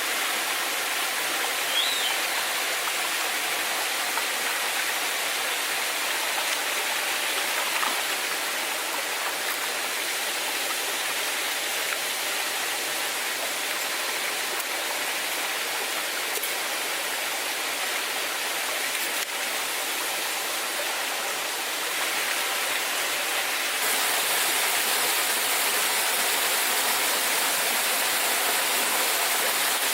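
Steady rush of flowing water from a waterfall, getting a little louder about 24 seconds in.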